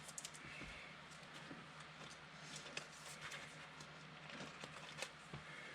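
Faint, scattered ticks and rustles of trading cards being handled, over a steady low hum.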